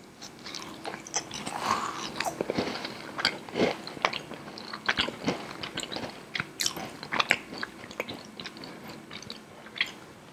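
Someone biting into and chewing a yakgwa, a deep-fried Korean honey cookie: a string of irregular crisp crunches.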